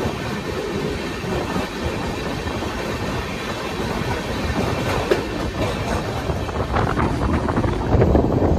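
Open freight wagons of a goods train rolling past close by: a steady rumble of steel wheels on the rails with clickety-clack over the rail joints. Near the end the knocks come sharper and louder as the last wagon goes by.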